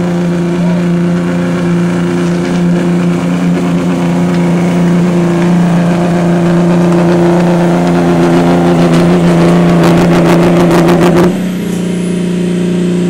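A 5.9-litre pulling vehicle's engine running hard at steady revs under the load of a pulling sled. About nine seconds in, a fast run of sharp clicks builds. Near the end it abruptly lets off, dropping to a lower steady run while a faint high whine falls away.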